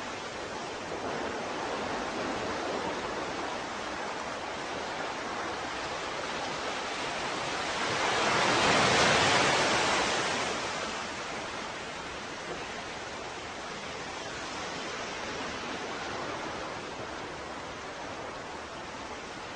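Ocean surf: a steady wash of waves, with one wave swelling up loudest about eight to ten seconds in and then drawing back.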